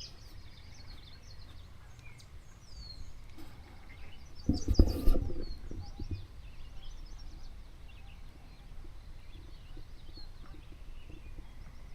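Songbirds chirping and trilling in the evening, many short high calls throughout. About four and a half seconds in there is a brief loud thump and rumble lasting about a second.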